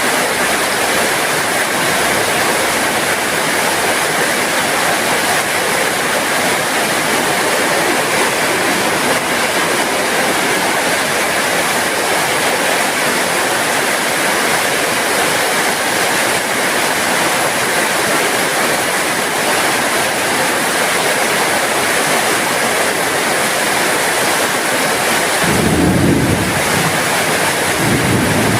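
Heavy rain falling in a steady, even hiss. A low rumble swells briefly a little before the end and once more right at the end.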